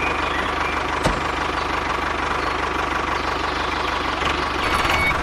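An engine idling steadily with an even, rapid knocking pulse, and a single sharp click about a second in.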